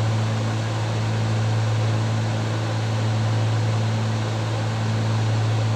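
Cessna 310 twin piston engines droning steadily in flight, heard in the cabin as a constant low hum under an even hiss.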